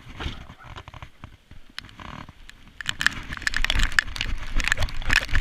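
Rapid clicks, crackles and low knocks on a chest-mounted GoPro, from rain and body movement against the camera, growing denser and louder about three seconds in.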